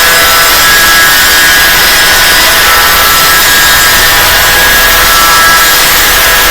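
Angle grinder running steadily against the inside of a spinning motorcycle brake drum, grinding out the scoring (grooves) worn into it by brake shoes that were not changed in time. A loud, even rasp with a few held whining tones.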